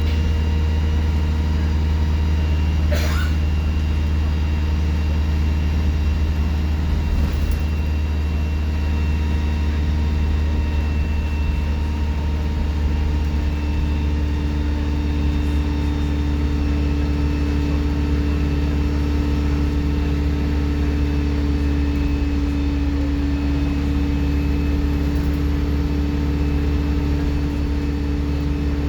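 Alexander Dennis Enviro 200 bus diesel engine running steadily under way, a constant low drone with steady whining tones and a turbocharger whistle above it. A brief click about three seconds in.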